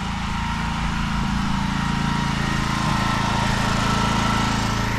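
Petrol engine of a pressure-washing machine running steadily, with a hiss of spray over it that grows a little louder in the second half.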